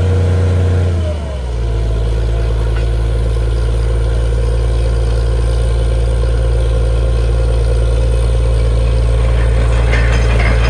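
Borewell drilling rig's engine running steadily. About a second in its pitch drops and it settles into a lower, steady drone. Near the end, metallic clanking starts over it.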